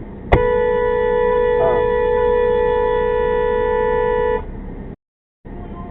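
Car horn held in one long, steady blast of about four seconds that starts abruptly and then cuts off.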